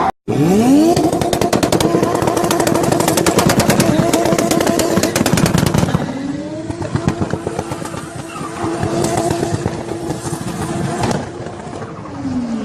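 Turbocharged car engine being revved. It climbs fast and is held at high revs for about five seconds with a rapid, even crackle. About six seconds in it drops and climbs again, is held high, then falls off near the end.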